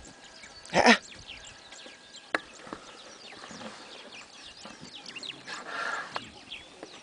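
Birds chirping: many short, high chirps, with a short loud burst about a second in and a sharp click a little after two seconds.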